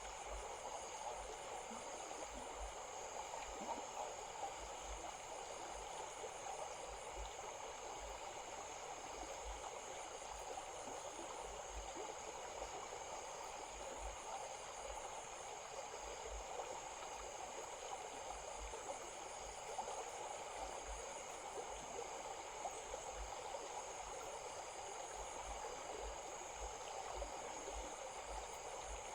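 Stream water flowing with a steady babble, joined by a steady high-pitched hum and repeated runs of quick, high chirping pulses.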